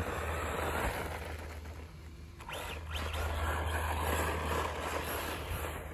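Losi XXXT 2WD stadium truck with a brushless electric motor driving on loose dirt: motor whine and tyre noise that fades about two seconds in and picks up again, over a steady low rumble.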